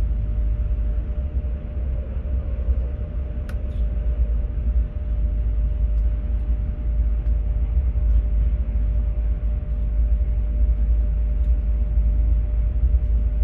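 Class 43 High Speed Train in motion, heard from on board: a steady, heavy low rumble of the running train with a constant hum and a single sharp click about three and a half seconds in.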